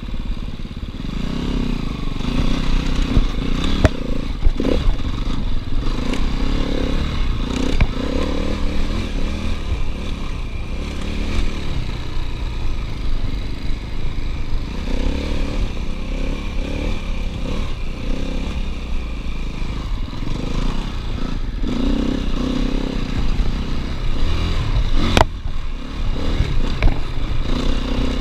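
KTM 250 EXC-F single-cylinder four-stroke enduro engine running under load on a trail ride, its revs rising and falling with the throttle. A few sharp knocks come through, the sharpest about 25 seconds in.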